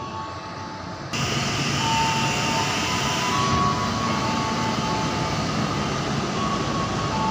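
A train running through the station: a steady rushing rail noise with thin, high steady tones over it, which jumps suddenly louder about a second in and stays loud.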